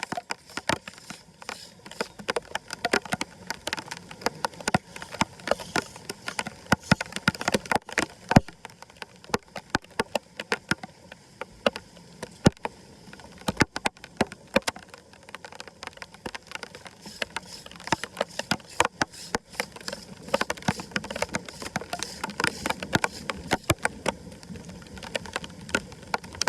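Floodwater running over a steady rush, with frequent irregular sharp clicks and splashes throughout.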